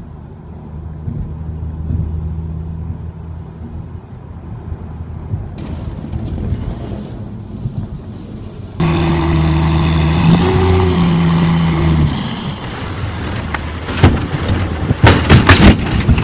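Heavy vehicle engines running steadily: a low hum, then a louder engine drone starting suddenly about nine seconds in. About two seconds before the end comes a run of loud, sharp bangs and knocks.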